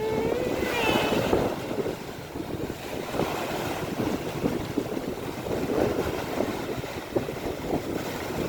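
Wind buffeting the microphone over rough sea water, with a wavering, drawn-out cry during the first second or so.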